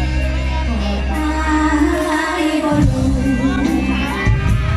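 Live mor lam band music with a woman singing over it and held bass notes that change a couple of times.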